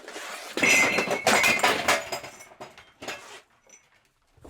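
Clattering crash of junk or scrap, with a brief ringing note, starting about half a second in and dying away over a couple of seconds.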